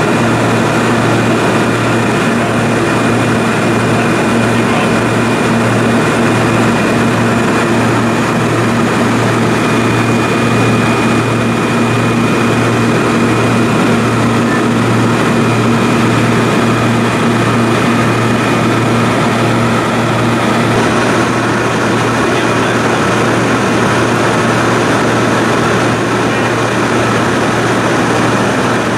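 Small propeller plane's engine and propeller droning steadily in flight, loud and unbroken.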